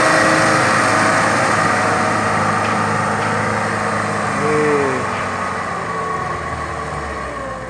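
Truck engine running steadily, slowly fading toward the end. A short falling hoot-like tone comes about four and a half seconds in.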